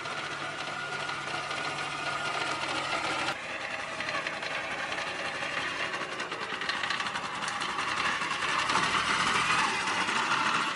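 Machine or power tool running with a rapid, steady mechanical rattle, changing abruptly a few seconds in and growing louder near the end.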